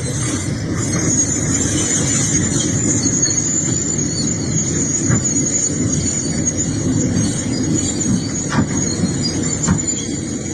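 Excavator running with a steady low engine rumble, and a continuous high-pitched squeal over it from about a second in.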